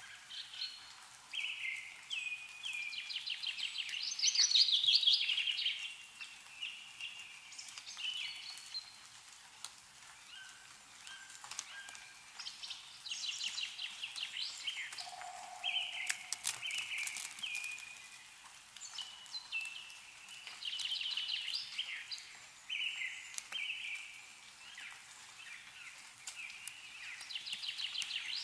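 Songbirds singing repeated trilling phrases every few seconds, with a few sharp ticks of snowmelt dripping from trees about halfway through.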